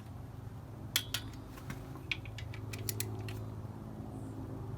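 Torque wrench clicking and small metal tool clinks as engine bolts are gone over again to confirm torque, a few sharp irregular clicks over a steady low hum.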